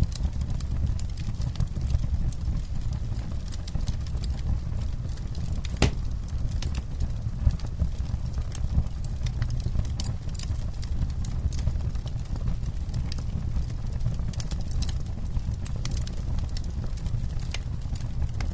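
Wood campfire burning, with a steady low rumble and frequent irregular crackles and pops, one sharper pop about six seconds in.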